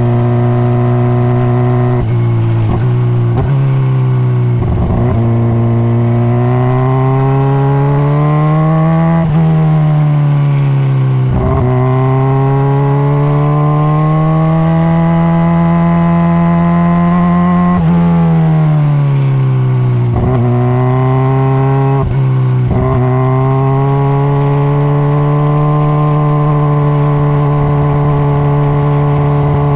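Honda CBR600RR's inline-four engine with stock exhaust, heard from on the bike while riding. Its pitch climbs and falls with the throttle, broken by several quick gear changes.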